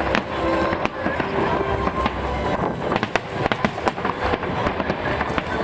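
Aerial fireworks bursting, with many sharp bangs and crackles going off irregularly one after another.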